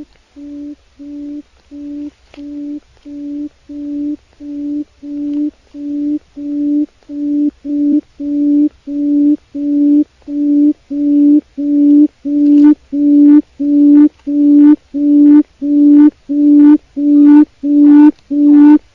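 Wild quail giving a long series of low, even hoots, a bit under two a second, that grow steadily louder.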